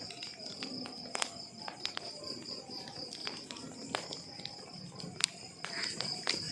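Wood fire in a fireplace crackling, with irregular sharp pops and snaps of varying strength over a soft low rustle of burning logs. A steady high-pitched trill runs underneath throughout.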